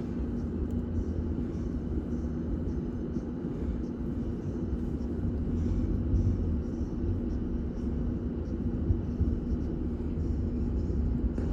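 A vehicle's steady low rumble with a constant droning hum.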